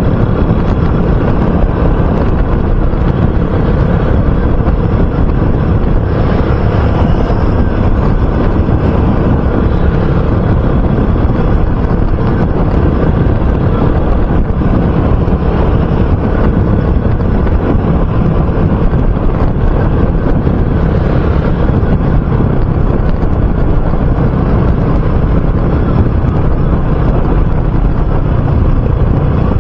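RUSI Classic 250 motorcycle running steadily on the move, its engine under a heavy rush of wind over the microphone.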